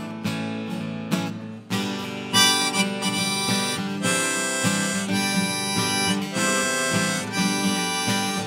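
Harmonica solo over strummed acoustic guitar, played live. The harmonica comes in about two seconds in with a run of long held notes.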